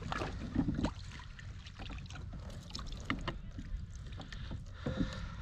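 Low steady rumble of a small fishing boat trolling on the water, with scattered light clicks and knocks of fishing gear being handled on board.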